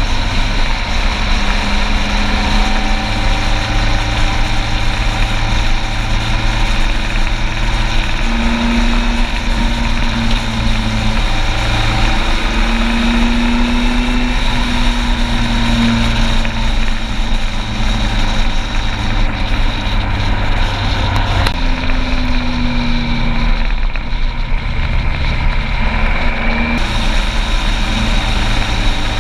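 Motorcycle engine running steadily while riding, its pitch shifting slightly up and down, over a constant rush of wind and road noise.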